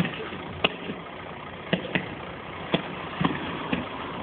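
Fireworks going off in an irregular string of about eight sharp bangs over a steady background rumble.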